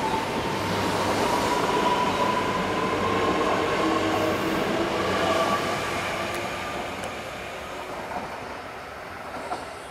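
A Yamagata Shinkansen mini-shinkansen train pulls out past the platform and accelerates away. Its motor whine climbs slowly in pitch over the wheel and rail noise. The sound fades over the last few seconds as the train recedes, with a small click near the end.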